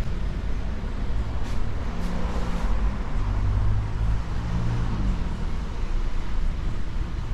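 Road traffic: a steady low rumble of passing vehicles, with one engine note swelling in the middle and fading again.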